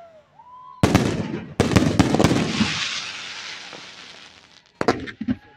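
Aerial firework shells bursting. A loud bang comes about a second in and another soon after, followed by crackling and rumble that fade over a few seconds, then a couple of sharp reports near the end.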